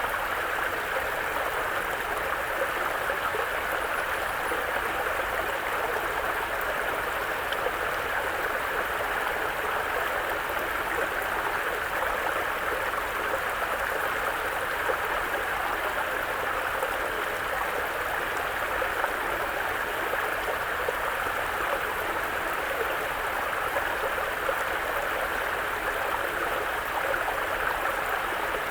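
Mountain brook running over rocks: a steady rush of flowing water.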